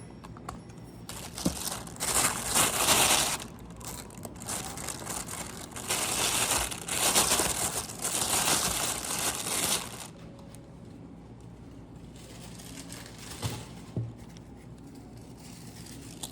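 Crinkling and rustling in two long stretches, with a couple of soft knocks near the end.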